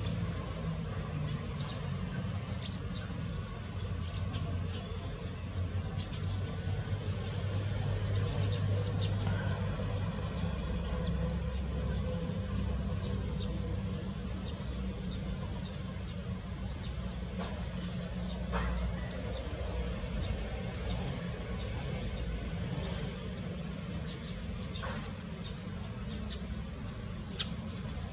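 A steady insect chorus of crickets forms a high drone over a low rumble, with three short high-pitched chirps spread through it.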